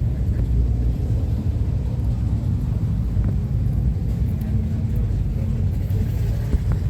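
Steady low rumble of an engine running, with no sharp changes.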